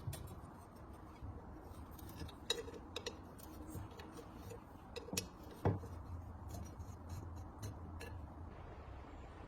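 Irregular small clicks and light knocks of hard objects, tools and small parts, being handled and set down, with one louder knock a little past halfway, over a low steady hum.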